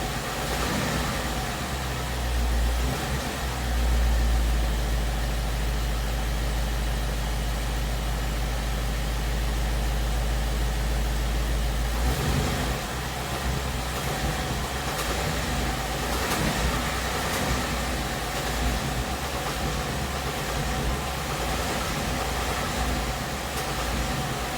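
2017 Ford Mustang GT's 5.0-litre V8 running around idle with a light knocking tick, the noise that the owner hears between 1000 and 1500 RPM and disputes Ford's word that it is normal. A deep low rumble drops away about halfway through.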